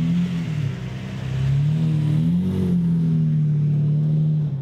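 Car engine running, its pitch rising between about one and a half and two and a half seconds in as it accelerates, then holding steady.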